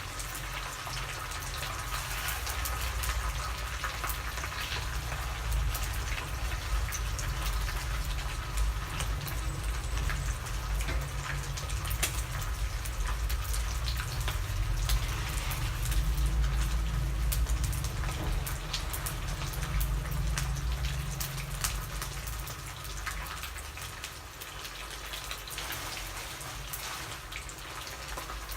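Cobia frying in hot oil in a pan: steady sizzling and crackling with many sharp pops, over a low rumble that fades about three quarters of the way through.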